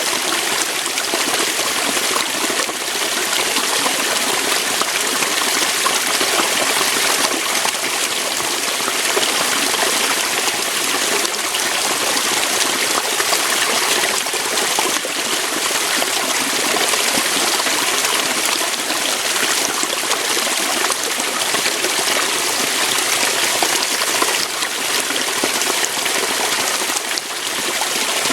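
Waterfall and stream water rushing steadily over rocks, a constant splashing hiss.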